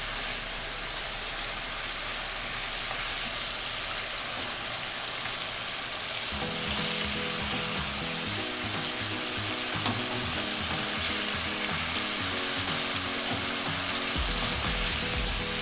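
Fried chicken wings sizzling in a hot pan of sweet, sticky sauce as they are tossed to coat over high heat. Background music comes in about six seconds in.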